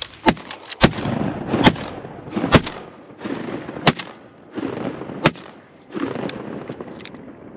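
Shotguns firing at incoming ducks: about six sharp shots in the first five or six seconds, at uneven intervals.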